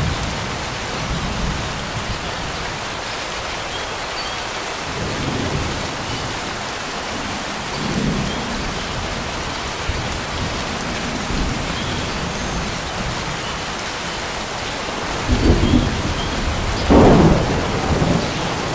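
Steady rain falling on water, with rolls of thunder rumbling every few seconds; the two loudest rumbles come near the end. Faint bird chirps are heard now and then over the rain.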